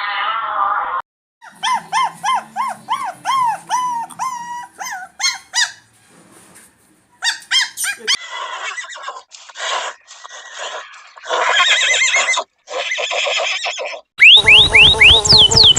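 A string of different farm animal calls cut one after another. It includes a run of short, repeated pitched calls in the first half and quick rising chirps near the end.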